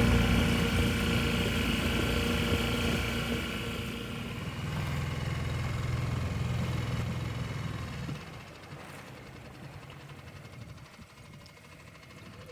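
Boat engine running steadily, easing off over several seconds and then dropping away sharply about eight seconds in, leaving only a faint low rumble.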